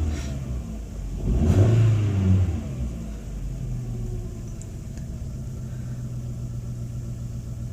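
Volkswagen Jetta 2.0-litre four-cylinder engine revved in two short bursts, then settling to a steady idle. It is being tested after the number 4 spark plug wire was reseated to cure a misfire, and it seems to be running better.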